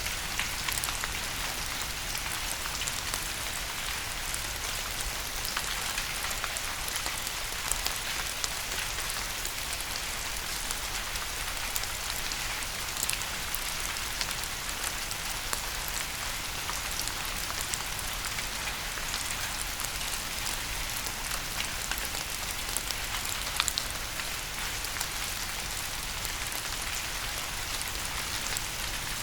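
Steady rain falling on a surface, an even hiss with scattered sharper drop ticks throughout.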